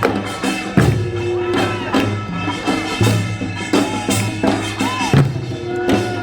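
Korean traditional folk music from a live performance, with a dense run of percussion strikes over sustained pitched tones.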